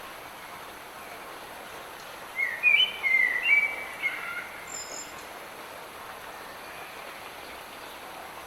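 Light rain falling steadily in a forest, with a songbird singing one short phrase of quick chirping notes that starts about two and a half seconds in and lasts about two seconds.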